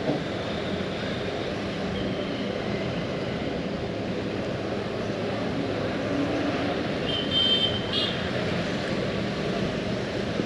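Steady rumbling noise of a vehicle in motion, with a brief high-pitched tone about seven seconds in.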